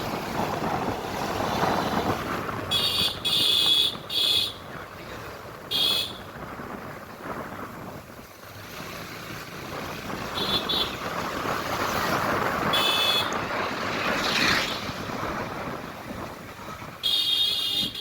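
Road traffic noise with wind on the microphone, broken by short high-pitched vehicle horn beeps. A few come in quick succession about three to four seconds in, single beeps follow now and then, and a cluster comes near the end.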